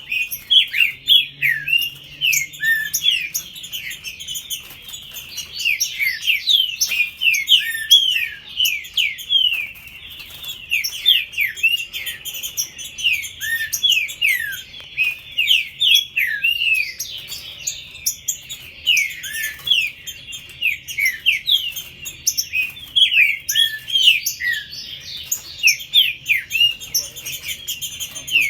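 Green-winged saltators (trinca-ferro) singing over one another: a dense, continuous run of short, clear whistled notes, many sliding up or down in pitch.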